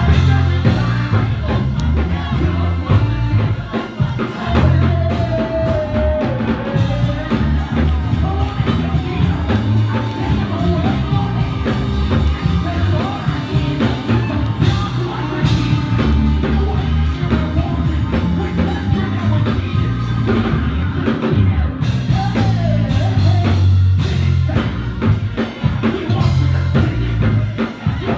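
Live church worship music: a band with drum kit and bass playing while a voice sings.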